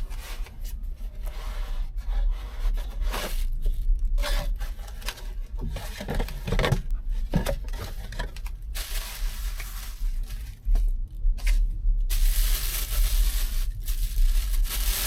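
Packaging being torn open and handled while an electric lunchbox is unboxed: repeated tearing, scraping and rustling strokes, with longer tearing stretches about nine and twelve seconds in, over a steady low hum.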